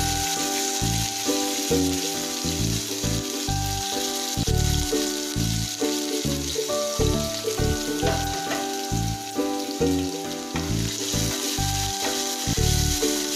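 Crushed garlic and green chillies sizzling in hot oil in a frying pan, a steady hiss that picks up again near the end as they are stirred. Background music with a steady beat plays over it and is the louder sound.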